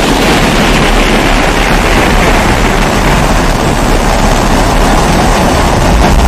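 Pressurised kerosene stove (primus-type 'babour') burning with a steady, loud roaring hiss and a low rumble underneath, rising slightly near the end.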